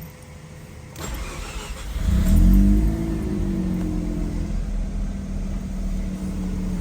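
Mazda RX-7 FD's twin-rotor 13B rotary engine hot-starting: the starter cranks for about a second, the engine catches and flares up in revs, then drops back within a couple of seconds to a steady idle. A warm engine off for about seven minutes, starting right up and idling as a healthy engine should.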